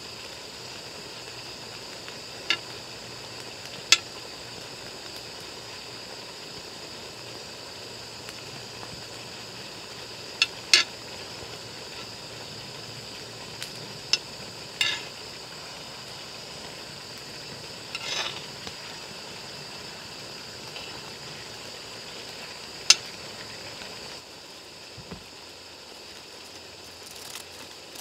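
Spicy marinated webfoot octopus and pork belly sizzling steadily in a pan on a portable gas stove. Metal tongs click and scrape against the pan about eight times as the food is stirred. The sizzle drops a little near the end.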